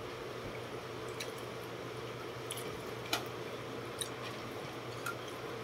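Close-up eating sounds: chewing and squishy mouth and finger noises as rice and fish in coconut sauce are eaten by hand, with scattered small wet clicks. A steady hum from an electric fan runs underneath.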